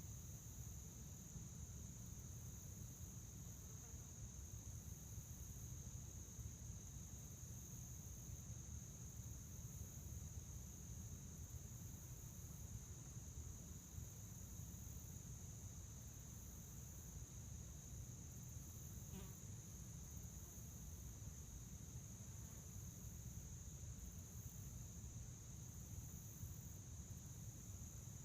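Field crickets chirping in a steady, unbroken high trill, over a faint low rumble.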